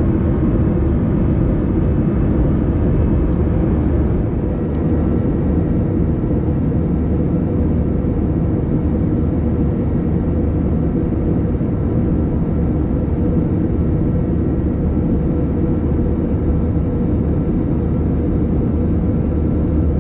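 Steady roar of engines and airflow inside the cabin of an Airbus A321 in flight, a deep rumble with a faint steady hum. The higher hiss eases slightly about four seconds in.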